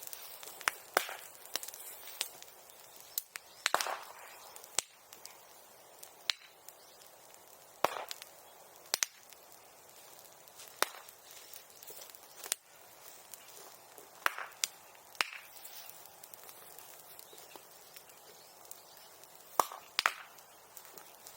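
Bonfire of bamboo and brush crackling, with sharp irregular snaps and pops about once a second over a low steady hiss.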